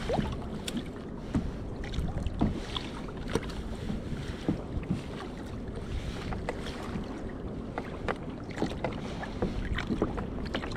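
Wind rumbling on the microphone of a sea kayak, with frequent small clicks and knocks as a small cod and its hook are handled at the boat.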